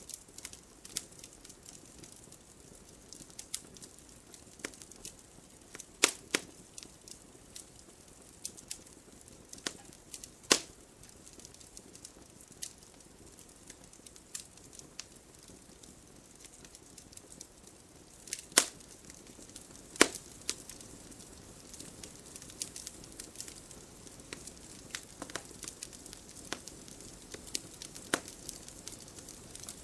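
Campfire burning with irregular crackles and pops over a soft hiss, a few sharper snaps standing out at about 6, 10, 18 and 20 seconds in.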